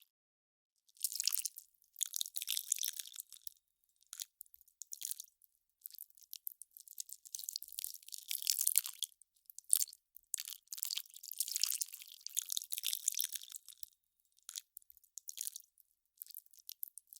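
Melting ice crackling and fizzing: fine crackles in irregular bursts with brief pauses, the first starting about a second in.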